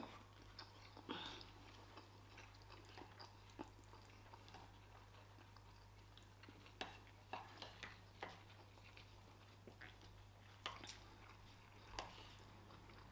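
Faint chewing and eating sounds, with scattered small clicks and knocks over a steady low hum.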